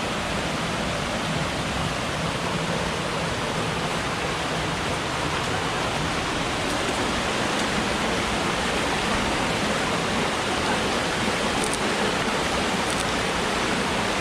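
Steady rushing of a swollen mountain stream in spate, running high after rain.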